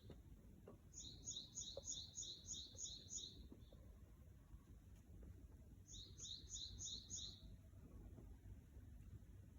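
A small songbird singing faintly: a quick run of about eight high, two-part chirps, then a shorter run of about five a few seconds later.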